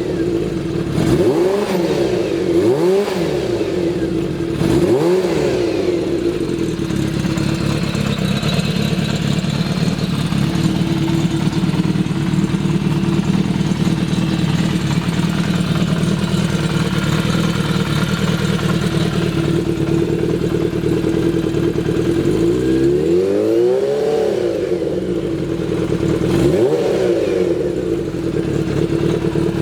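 Kawasaki Z400FX's air-cooled inline-four engine running. It is blipped three times in the first few seconds, then held at a steady idle, then revved twice more near the end, each rev rising and falling back.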